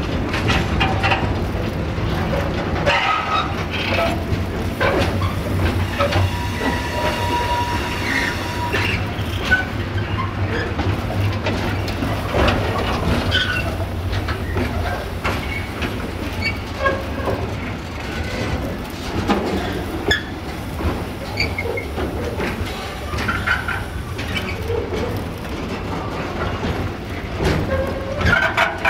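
Container freight wagons rolling slowly past close by, with a steady rumble and the clack of wheels over rail joints. Brief metallic wheel squeals come through, and one longer steady squeal sounds about seven seconds in.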